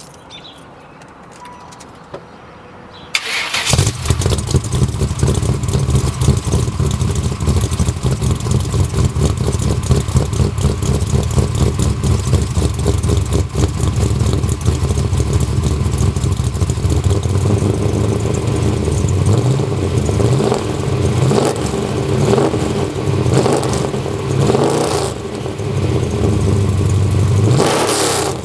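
A 383 stroker small-block V8 (a bored-and-stroked LT1) with a cam-deleted...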